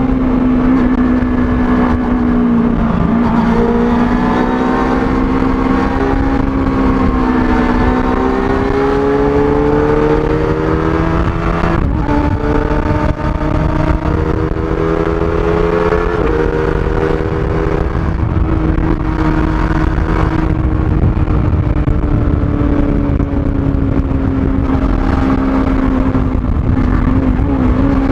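Kawasaki ZX-25R's four-cylinder engine running at high revs through its stock exhaust while riding, the pitch holding steady and drifting gently up and down. About twelve seconds in there is a brief dip and the pitch steps up, like a gear change, with wind rumble underneath throughout.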